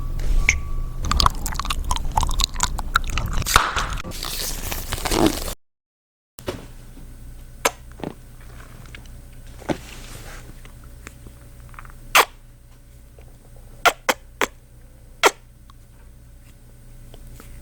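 Close-miked kissing and lip-smacking mouth sounds. At first they come thick and fast over a low rumble. After a brief dropout about a third of the way in, they come as single sharp smacks every second or two.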